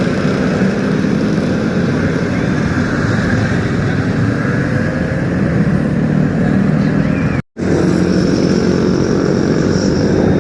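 Superbike engines running steadily in street noise. The sound cuts out completely for a split second about seven and a half seconds in, then carries on.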